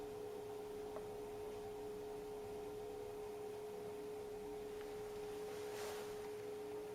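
Samsung EcoBubble washing machine running its calibration cycle with an empty drum: a steady whine from the drum motor turning at constant speed. There is a brief hiss near the end.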